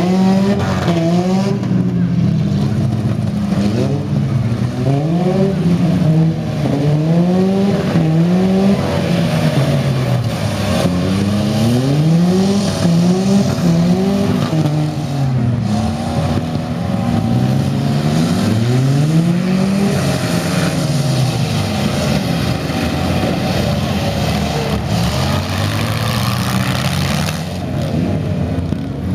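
Several minivan and mini-truck engines revving hard at the same time, their pitch rising and falling again and again as the vehicles accelerate, back up and drive into one another in a demolition derby.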